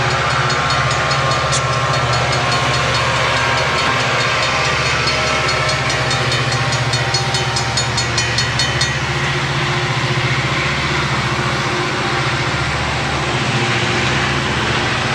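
Diesel-hauled freight train running by: a loud, steady rumble of engines and rolling wheels, with a quick run of even clicks from the wheels over the rails in the middle.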